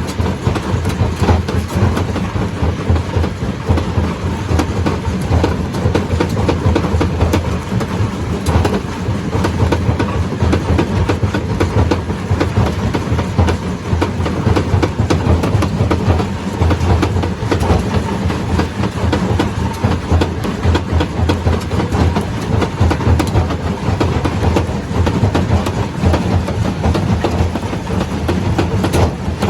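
Stone crusher running steadily: a deep machine rumble under a dense, continuous clatter of rock being broken and rattling through.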